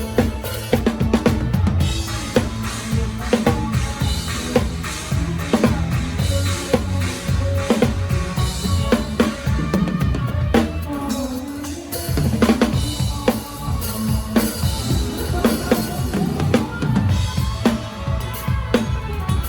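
Live drum kit played along with a band: bass drum, snare and rimshot strokes keep a steady beat under the band's music.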